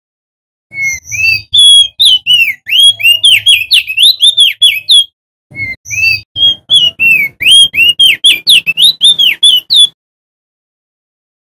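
Male opior jambul (crested white-eye) singing loudly: two long phrases of quick, clear whistled notes that swoop up and down, the second starting after a brief pause about halfway through.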